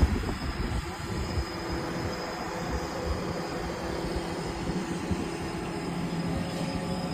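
Crane engine running steadily under load, a low, even rumble with a faint held whine above it.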